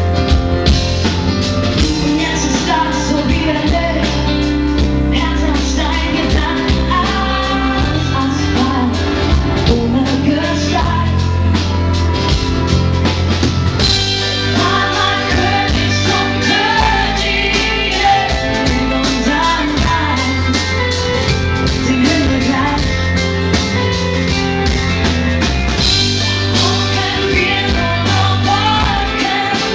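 Live rock band playing, with a female lead singer over guitars, a drum kit and heavy bass. The bass is distorted, overloading the recording camera's microphone.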